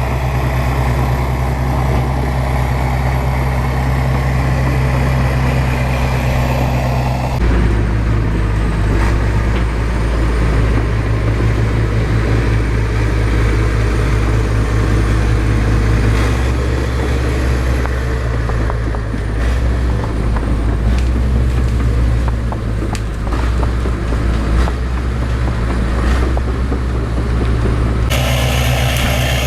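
Bulldozer's diesel engine running steadily, with a few knocks in the later part. The engine sound changes abruptly about seven seconds in and again near the end.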